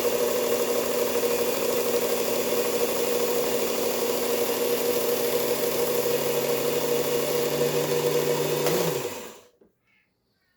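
Knife-sharpening belt grinder running steadily with a motor hum, then switched off about nine seconds in, its pitch falling as it quickly winds down to silence.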